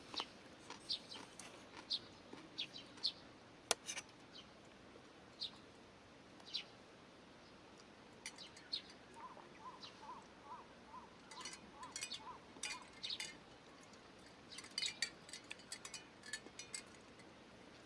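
Birds calling: short, high chirps scattered throughout, with a run of about ten quick, evenly spaced lower notes in the middle. A single sharp click about four seconds in.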